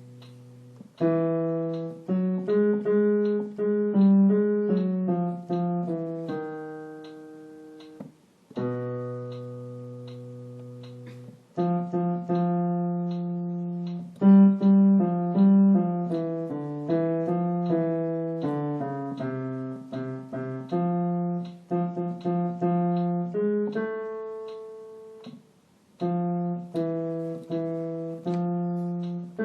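Piano playing the bass voice part of a choral song as a rehearsal track: a slow low line of struck notes, some held long and fading, with short breaks about 8 seconds in and near 25 seconds.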